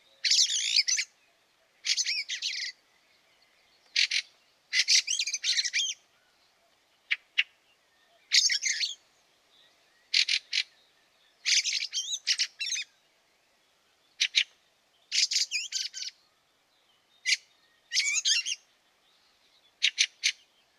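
Fieldfare's harsh, scratchy chattering calls in short bursts every couple of seconds, each phrase often led by one or two sharp clicks.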